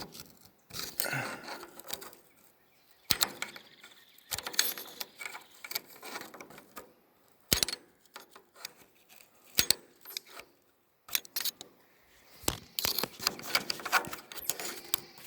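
Hand work on a baler's knotter mechanism: scattered sharp metallic clicks and clinks with short bursts of rustling as tangled twine is worked free of the knotters.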